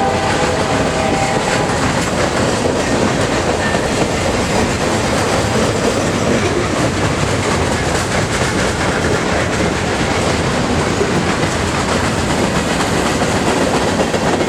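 Freight train rolling past, the wheels of its cars clattering over the rails in a steady loud rush. The locomotive's horn trails off in the first two seconds.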